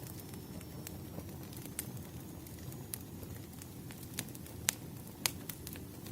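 Wood fire burning: irregular sharp crackles and pops over a low steady rumble, with a few louder pops in the second half.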